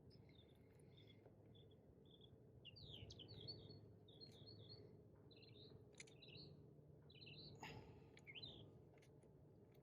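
Faint birds chirping in quick clusters of short, high notes over a low steady background hum, with a couple of soft clicks.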